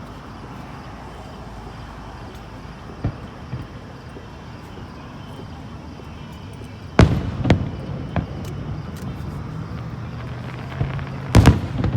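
Aerial fireworks bursting during a fireworks display. A steady low rumble for the first several seconds, then a run of loud sharp bangs about seven seconds in, with scattered crackles after them and a big double bang near the end.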